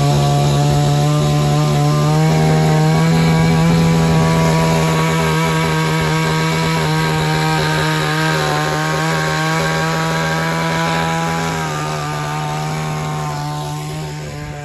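A small engine runs steadily at high revs, holding an even pitch, and fades away near the end.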